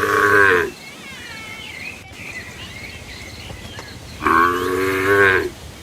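Cattle mooing twice: one long call ends just under a second in, and a second call of about a second and a half comes near the end. Faint high chirps sound between the calls.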